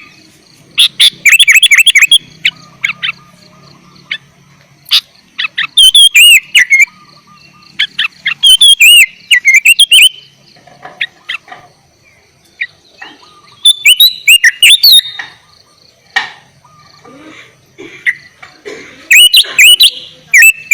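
Sooty-headed bulbul (kutilang) singing loudly in repeated bursts of quick, looping whistled notes, about five phrases with short pauses between them.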